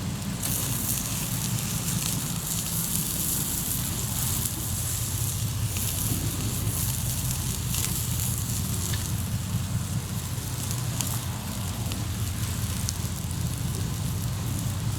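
Hardwood campfire crackling in a fire stand: a steady hiss with many sharp little pops and snaps scattered through it.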